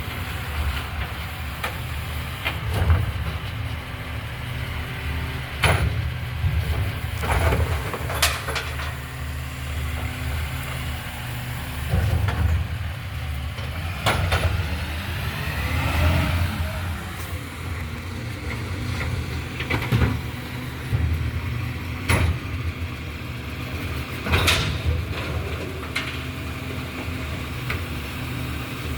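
Recycling garbage truck's engine running steadily, with sharp clanks and bangs every few seconds and a whine that rises and falls about halfway through.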